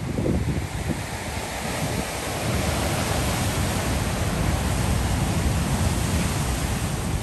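Ocean surf washing in, a broad rushing that swells about two seconds in and holds, with wind buffeting the microphone in low rumbles.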